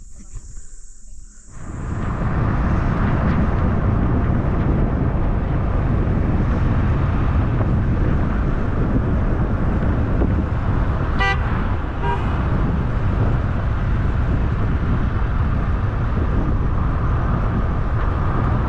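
Steady rumble of a moving vehicle with road and wind noise, with a short horn toot near the middle followed by a fainter second one.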